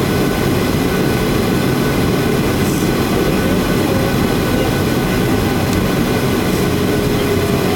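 Steady, unbroken cabin drone inside a Boeing 737-800 in flight: its CFM56 jet engines and the rush of air over the fuselage, heaviest in the low range, with a few faint steady tones above it.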